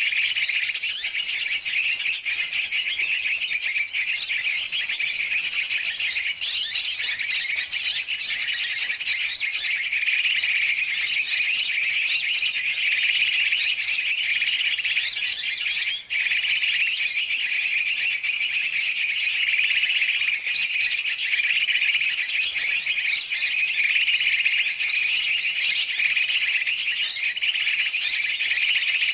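Dense, unbroken chorus of many small birds chirping and twittering rapidly over one another at a steady level: a bird-lure (pikat) recording of mixed big and small bird calls, played to draw birds such as yellow-vented bulbuls (trucukan).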